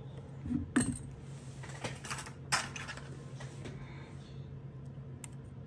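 Small, sharp clicks and light scraping of a repair tool working on a smartphone's parts, with two clear clicks about a second apart near the start, over a steady low hum.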